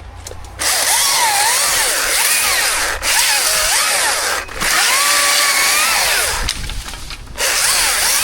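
Chainsaw cutting wood, its engine pitch wavering up and down under load. It starts about half a second in, dips briefly twice, and eases off for about a second near the end before running at full level again.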